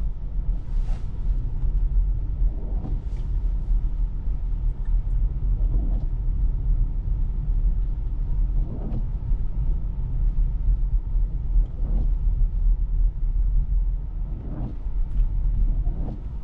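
Steady low road rumble of an electric car driving on snowy streets, heard inside the cabin, with a few faint short ticks scattered through it.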